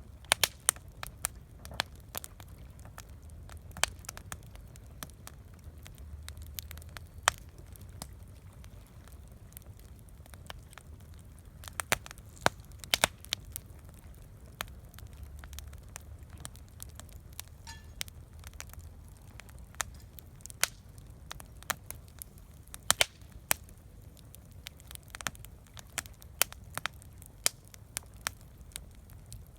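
Wood campfire crackling, with irregular sharp pops and snaps scattered throughout over a low steady rumble.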